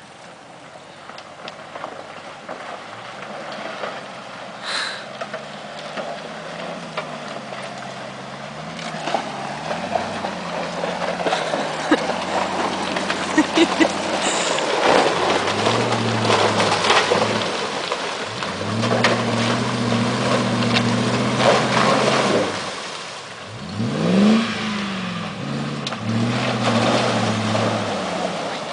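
Land Rover Discovery's engine revving up and down as it crawls through a river crossing, its pitch climbing and dropping again and again. Scattered crunching and knocking from the wheels grows busy in the middle, and a short sharp rev rises and falls near the end.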